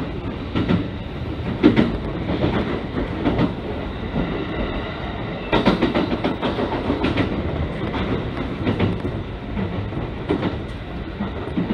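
Echigo Tokimeki Railway local train running at speed, heard from inside the carriage: a steady rumble of wheels on rails, broken by scattered clicks as the wheels pass over rail joints.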